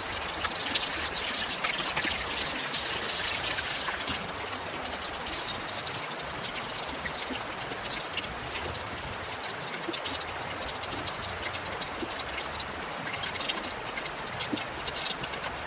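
Heavy rain falling steadily, a dense hiss full of fine drop ticks. About four seconds in, the sound abruptly drops to a softer, duller hiss.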